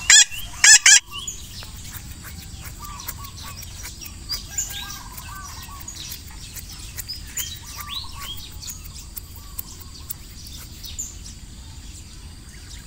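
Birds chirping, many short scattered calls over a steady hiss of outdoor ambience. Two loud, wavering cries come in the first second.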